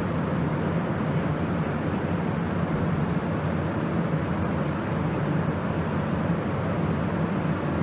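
Solveno RMX 93 ACV vertical fan heaters running steadily: a continuous fan rush with a constant low hum.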